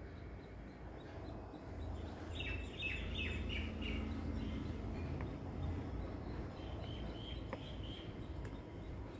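A small bird chirping in two short runs of quick, falling notes over a low steady outdoor rumble. Near the end there is a faint click, a snip of scissors cutting greens.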